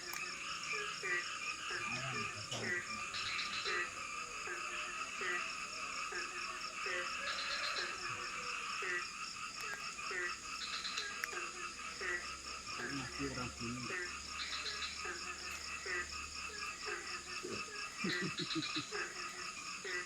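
Chorus of frogs croaking, one short call repeated at an even pace of about one a second, over a steady high-pitched drone.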